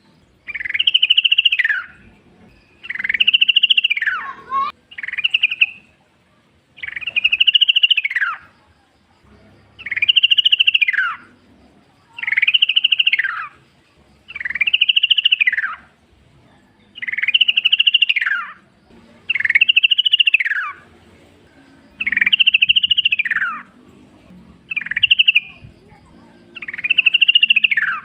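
Yellow-vented bulbul singing, repeating the same short bubbling phrase over and over, one about every two and a half seconds, each dropping in pitch at its end.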